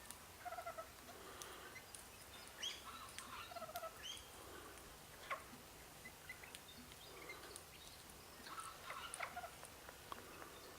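Faint, scattered bird calls: short chirps and brief whistles that bend up and down in pitch, with a few sharp clicks among them.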